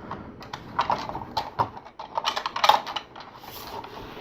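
Plastic LEGO pieces clicking and knocking as the assembled model is handled, irregular light clicks with a louder knock a little past the middle.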